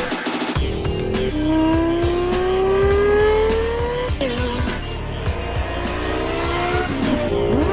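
Car engine accelerating: one long climb in pitch, a sudden drop about four seconds in, then several shorter climbs, mixed with music.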